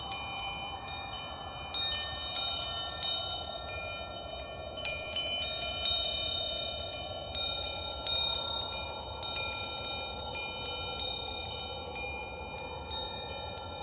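Wind chimes ringing in irregular, overlapping strikes, each tone ringing on; the strongest strikes come about five and eight seconds in. A soft whooshing that slowly sinks and rises lies beneath them.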